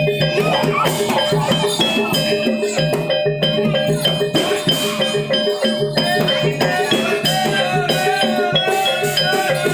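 Javanese barongan accompaniment music: a dense, fast percussion rhythm with steady ringing tones and a wavering melody line over it, playing without a break.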